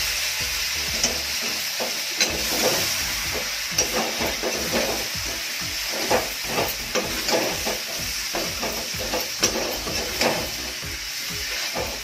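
Chicken and onion masala sizzling in a kadai while a slotted metal spatula stirs it, with repeated scrapes and knocks of the spatula against the pan over the steady hiss of frying.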